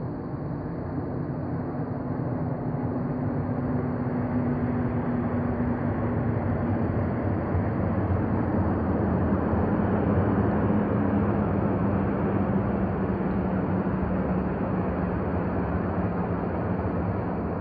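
Steady engine drone with a hum that drops in pitch about seven seconds in, growing louder toward the middle and easing off near the end.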